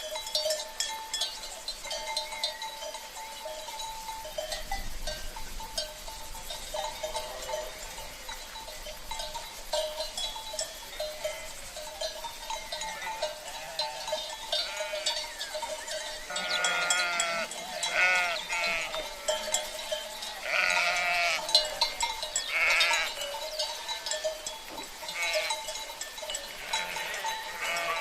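Flock of sheep bleating repeatedly, with several loud calls in the second half, among clanking cowbells over a steady rush of river water.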